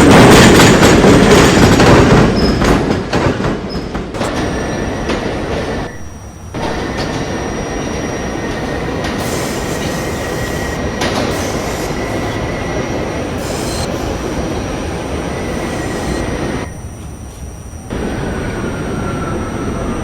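R68A subway train running between stations: a loud rumble of wheels on rail that eases over the first few seconds, with a thin, steady high squeal of the wheels. The noise briefly drops twice, about six seconds in and again near the end.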